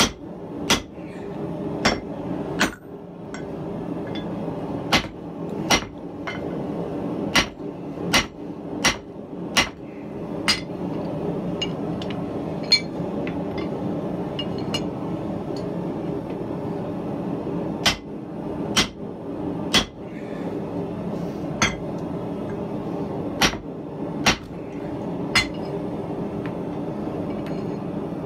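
Hand hammer blows on steel on an anvil while forging: about twenty strikes at an uneven pace of roughly one a second, with a longer pause midway, over a steady low hum.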